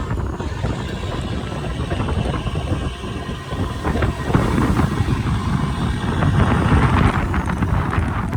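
Strong wind blowing across the microphone at sea, a loud, uneven low rumble that swells about halfway through.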